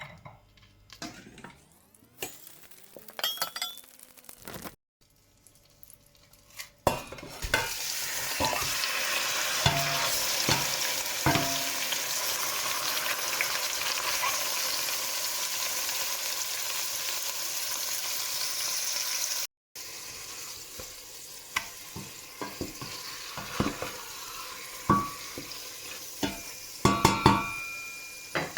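Utensil and cookware clatter, then food frying with a steady sizzle in a hot pan, broken by knocks of stirring. After an abrupt cut about two-thirds of the way through, the sizzle goes on quieter, with more taps and scrapes.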